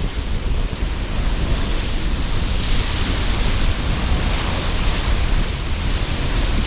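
Sea surf breaking with strong gusting wind buffeting the microphone; a wave's hiss swells about two and a half seconds in and fades out over the next second or so.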